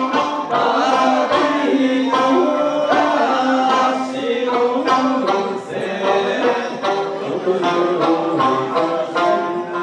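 Okinawan Eisa music: a folk song sung with sanshin accompaniment, punctuated by regular drum strikes.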